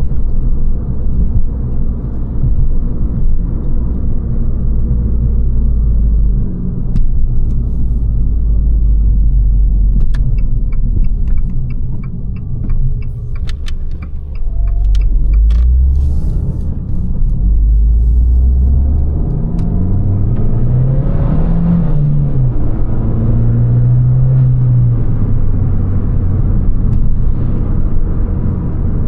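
Abarth 595 Competizione's turbocharged 1.4 T-Jet four-cylinder running under way, a steady low rumble through its Record Monza exhaust heard from inside the car. A run of even ticks comes in the middle, and about twenty seconds in the engine revs climb and then drop.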